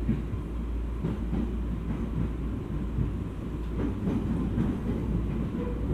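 E231 series electric commuter train running at speed, heard from inside the passenger car: a steady low rumble of wheels on rail with a few scattered knocks.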